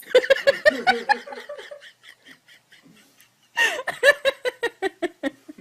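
A person laughing in two bouts: a run of quick ha-ha pulses right at the start, then a second run about three and a half seconds in.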